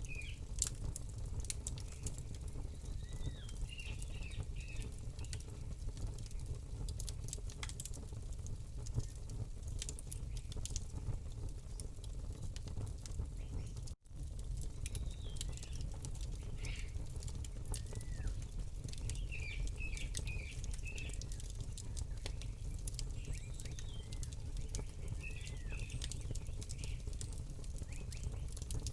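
Campfire crackling with frequent sharp pops over a steady low rumble, while small birds chirp in short repeated phrases. The sound cuts out for a split second about halfway through.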